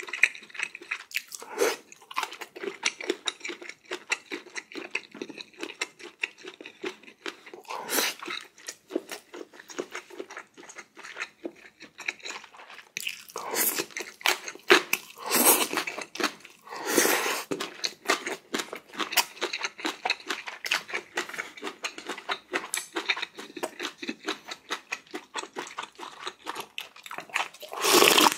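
A person eating close to the microphone: steady wet chewing and crunching, broken by several louder noisy spells, the longest a little past the middle.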